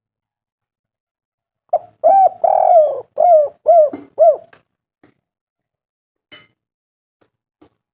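Spotted dove (tekukur) cooing: one phrase of about six low, arched coos, a short opening note, a longer drawn-out one, then several short ones, starting about two seconds in. It is the kind of call played as a lure to get other spotted doves calling.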